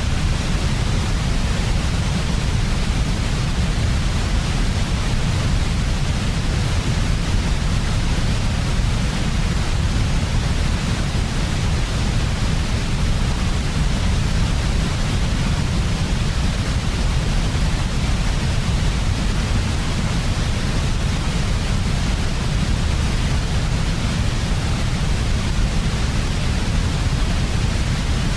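Steady, unchanging synthetic noise, heaviest in a deep low rumble with a softer even hiss above it.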